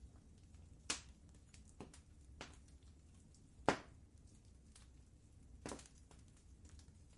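Wood fire crackling in a fireplace: irregular sharp pops and snaps over a low steady rumble, the loudest pop a little under four seconds in.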